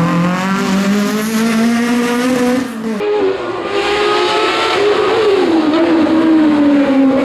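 Rally car engine at full throttle, its pitch climbing steadily, then breaking off abruptly about three seconds in. A rally engine follows, its pitch rising, dipping and wavering as the car is driven hard through the stage.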